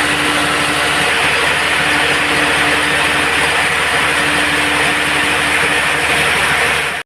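Band sawmill running with a steady, loud machine noise and a constant hum, cutting off abruptly at the very end.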